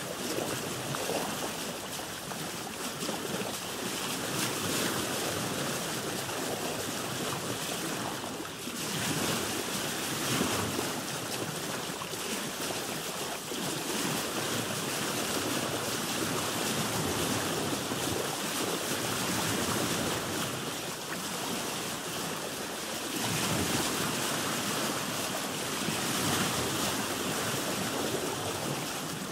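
Sea water washing and slapping against the hull of a boat, in slow swells that rise and fall every few seconds, with wind noise.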